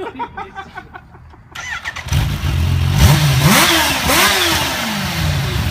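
Kawasaki Ninja H2's supercharged inline-four engine starting about two seconds in, then blipped twice, each rev rising and falling back, before it settles to a steady run.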